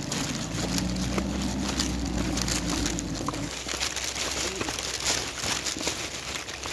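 A car's engine running on the muddy track, a low steady hum that drops away about three and a half seconds in, under a constant crackly rustling noise.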